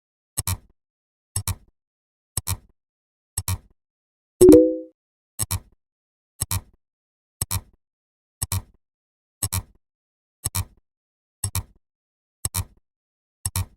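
A short, crisp double click repeating about once a second, like a steady tick, with one brief, louder pitched blast about four and a half seconds in.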